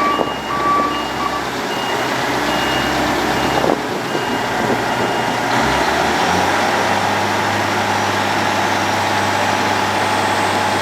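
Heavy diesel road-planing plant running, with a vehicle's reversing alarm beeping evenly for about the first four seconds. Around six seconds in, the engine settles into a steady low hum.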